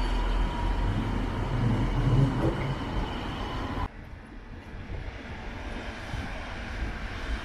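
Train running on the rails: a loud low rumble with faint steady tones. About four seconds in it cuts off abruptly to a quieter, duller rumble.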